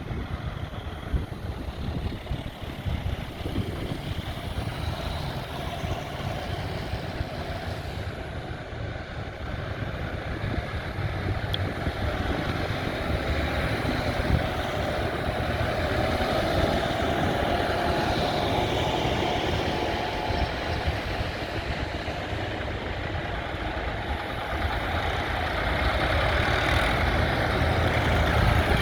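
Tractor engines running, a steady low rumble that grows louder toward the end.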